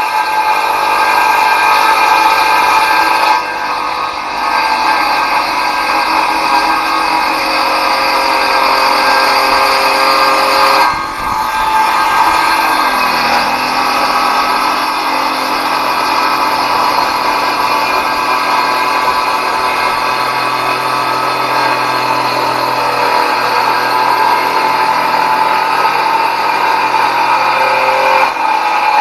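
Ridgid circular saw running and cutting wood: a loud, steady whine that dips briefly about three and eleven seconds in, then stops abruptly at the end.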